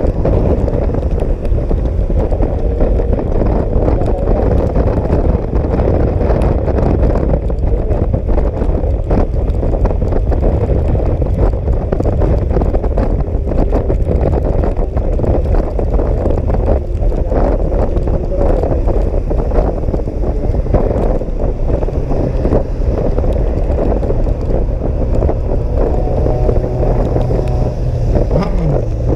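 Motor scooter riding at speed, its engine drone buried under heavy wind buffeting on the microphone.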